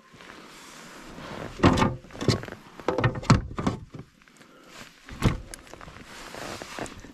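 A series of irregular knocks and thuds on a plastic kayak as a caught bass and gear are handled for measuring. The loudest knocks come about one and a half seconds in, a cluster around three seconds, and one more a little after five seconds.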